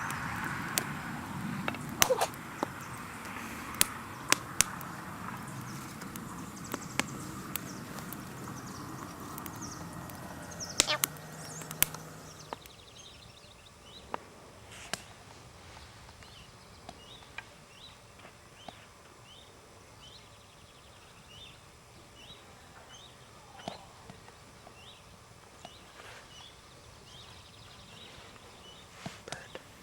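Outdoor ambience at a campfire: a low murmur with scattered sharp crackles and clicks. About twelve seconds in it turns quieter, and a bird chirps repeatedly, about once a second.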